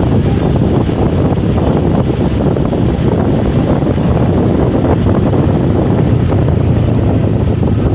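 Steady, loud wind rush buffeting the microphone while riding a motorcycle, with a low rumble underneath.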